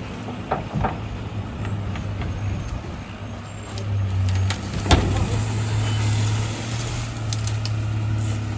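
Garbage truck running with a steady low hum that grows louder about four seconds in as the packer works, compacting Christmas trees; a single loud crack about five seconds in, with a few sharper clicks before and after.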